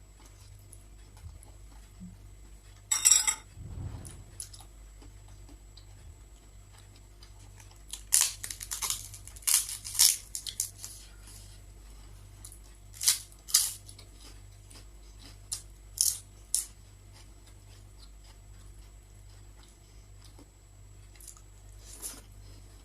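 Eating sounds: scattered short clinks and scrapes of cutlery against dishes, coming in separate bursts with quiet between, the busiest stretch in the middle.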